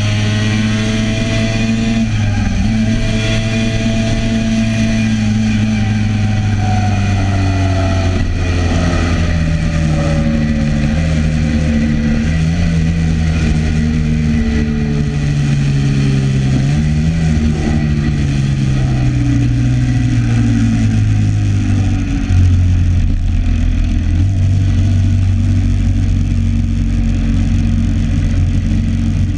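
Classic racing motorcycle engine heard from onboard at speed, with wind noise over the microphone. The revs fall away over the first half as the bike slows, then run lower and steadier.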